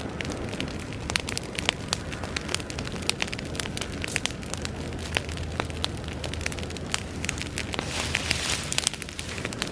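Bonfire of dry summer grass burning: a steady low rush of flame with many sharp crackles and pops, and a short hiss about eight seconds in.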